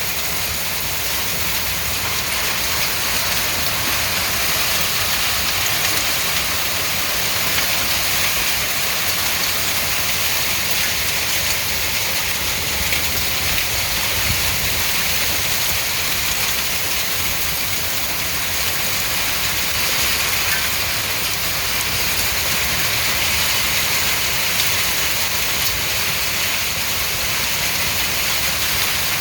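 Heavy rain mixed with hail pelting down, a dense steady patter of countless small impacts with no let-up.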